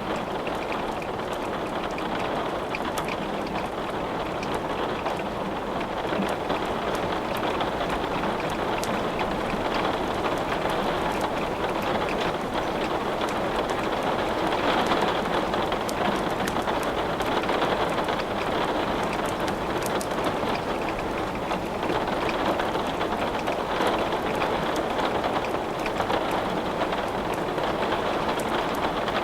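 Steady rain, a dense even hiss that swells slightly and eases now and then, with many small sharp clicks scattered through it.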